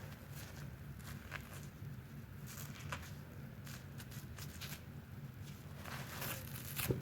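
Soapy sponge being squeezed: soft wet squishing and crackling of suds, with a few brief louder squelches and the loudest near the end. A steady low hum lies underneath.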